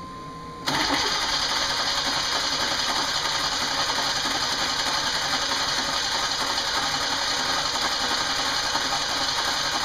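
Starter cranking a 1992 Chevy Camaro's 3.1-litre V6, setting in about a second in and turning the engine over steadily without it catching: a hard cold start after the car has sat for a couple of weeks.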